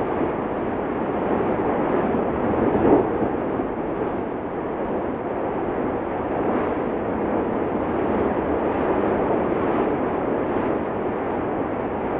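Steady rumble of the erupting Cumbre Vieja volcano, swelling briefly about three seconds in.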